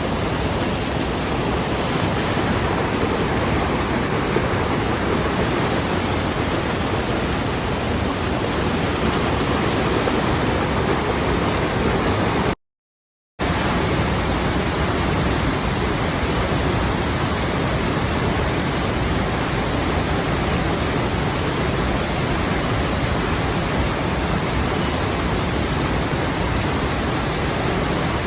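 Steady, even rush of flowing water. It drops out to complete silence for under a second about halfway through, then resumes with slightly less hiss in the highest frequencies, as at an edit between two recordings.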